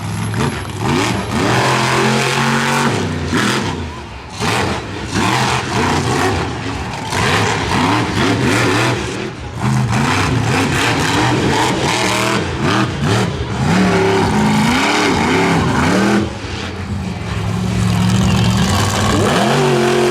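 Monster truck engine revving hard again and again, its pitch sweeping up and down, broken by several sharp bangs.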